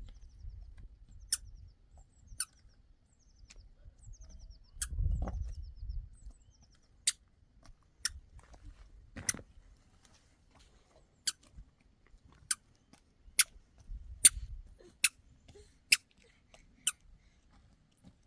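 A string of sharp, light clicks or taps, irregularly spaced about a second apart, with two short low rumbles about five seconds in and near the end.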